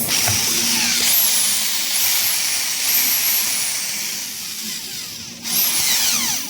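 A small high-speed power tool revved in short bursts: a shrill whine that shoots up and then sinks as the tool is let off, about three times in quick succession and once more near the end, over a steady hiss.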